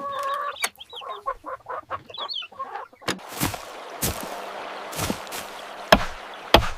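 Chickens clucking in short calls, then from about three seconds in a series of sharp knocks, the loudest near the end.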